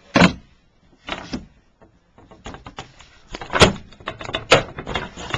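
A sliding wooden panel being pulled out and handled: a run of sharp wooden knocks and scraping rattles, loudest a little past the middle.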